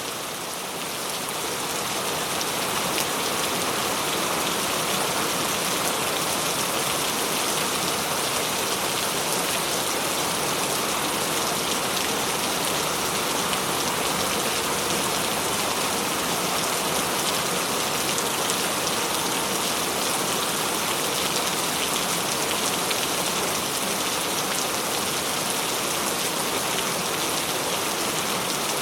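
Steady heavy rain: a dense, even hiss of countless drops falling on a surface, which swells slightly in loudness over the first two seconds and then holds constant.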